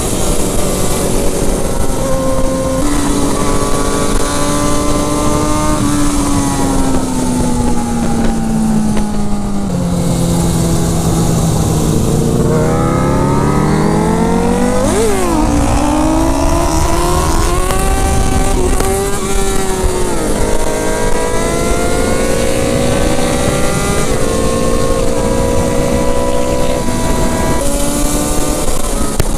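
Sport bike engine heard from the riding motorcycle with steady wind rush: the engine note sinks as the bike slows, then climbs as it accelerates hard, with several quick steps in pitch from gear changes in the second half. A brief sharp falling whine cuts across about halfway through.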